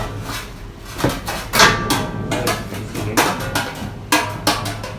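A run of irregular knocks and clanks of hard objects being handled, some with a brief metallic ring, over a steady low hum.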